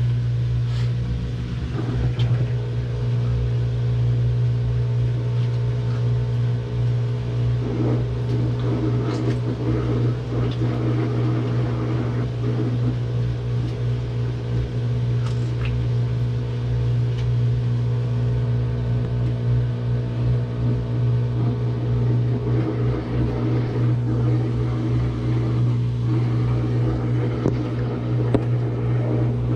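Samsung washing machine running its spin cycle: a steady low drone from the spinning drum and motor, with a few faint clicks now and then.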